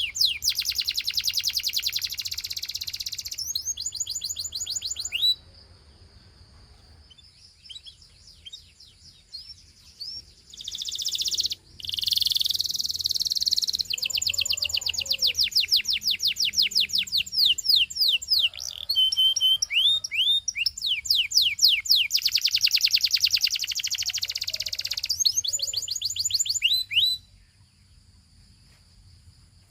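Gloster canary singing: fast trills and rolls of many quick repeated high chirps, in long phrases with a short pause partway through. The song stops shortly before the end.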